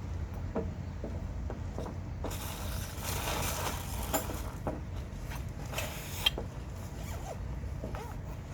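A zipper being pulled twice, a long rasping pull lasting about two seconds and then a shorter one ending in a sharp click, over a steady low rumble.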